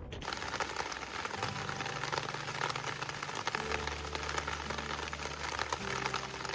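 Steady rain pattering on the roof of a parked camper van, heard from inside as a dense, even patter.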